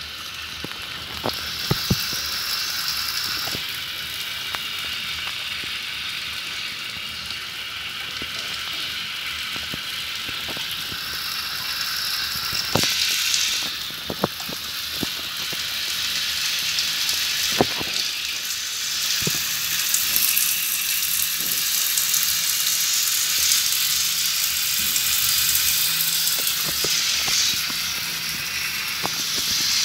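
Tap water running in a steady hiss as it showers a pet bird in place of rain. Scattered sharp clicks sound throughout.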